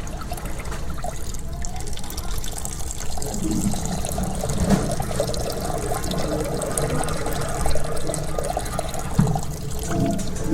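Steady rush of water in a toilet, most like a flush with the cistern refilling.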